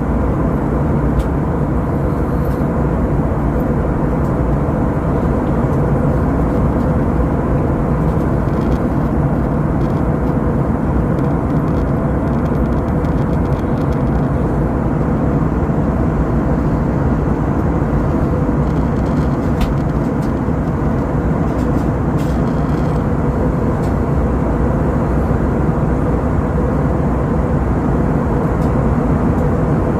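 Airbus A321-200 cabin noise from inside the passenger cabin: a loud, steady rumble of jet engines and airflow that does not change.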